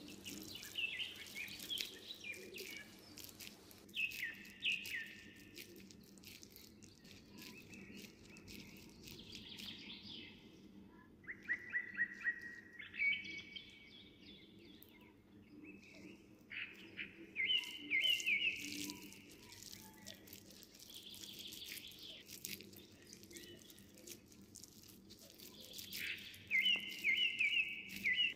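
Birds chirping in short runs of quick, high notes every few seconds, over a faint steady hum.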